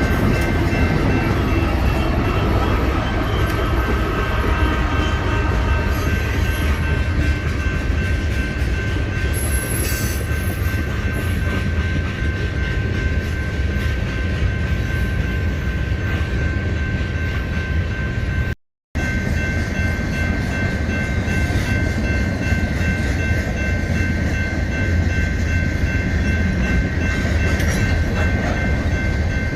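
Freight train rolling past: a continuous heavy low rumble of the wheels on the rails, with a steady high tone held over it. The sound cuts out for a split second about two-thirds of the way through, then carries on.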